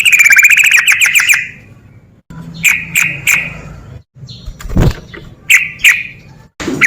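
Yellow-vented bulbul (trucukan) singing: a fast run of bubbly repeated notes at the start, then short phrases of a few notes each. A soft low thump comes about five seconds in.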